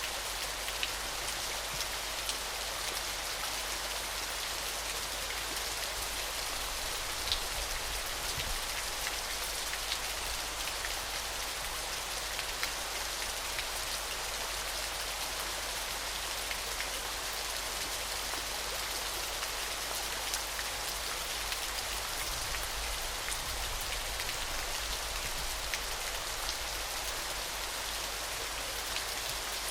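Waterfall: a steady rush of falling water with many small sharp splashing ticks scattered through it.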